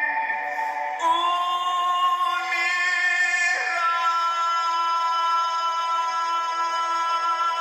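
Music with singing: long held notes over the accompaniment, stepping to a new pitch about a second in and again about halfway through.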